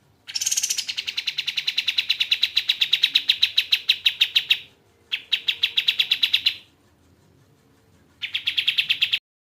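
Kapas tembak bird song: three trills of sharp, rapidly repeated notes, about eight a second, the first over four seconds long and the next two shorter, the last cutting off suddenly.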